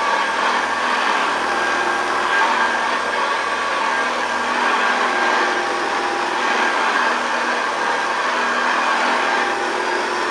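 1960 Hoover Deluxe 652 upright vacuum cleaner running steadily, its motor driving the belt-driven brush roll.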